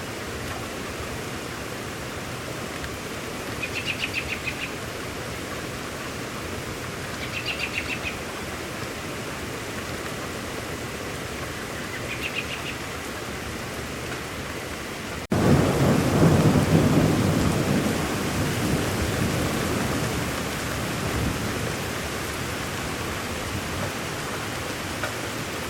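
Steady rainfall with three short chirping bird trills in the first half. About fifteen seconds in, an abrupt cut brings in a loud rumble of thunder that slowly dies away under the rain.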